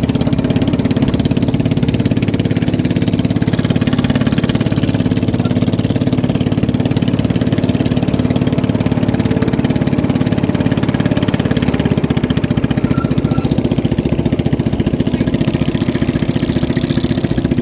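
Boat engine running steadily at close range, an even unchanging drone.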